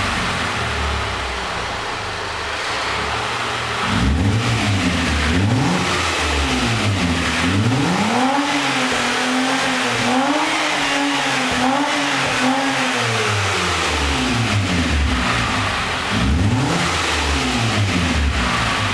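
Supercharged V6 of a TRD Aurion through a pair of Magnaflow mufflers, revving: a few quick rises and falls in engine speed, then held higher with small wobbles for several seconds, settling back, and one more quick rev near the end.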